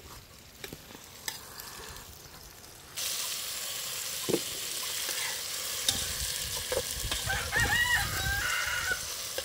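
Ackee frying in oil in a metal pot over a wood fire: a steady sizzle that starts suddenly about three seconds in, with a spoon knocking and scraping against the pot as it is stirred. A rooster crows near the end.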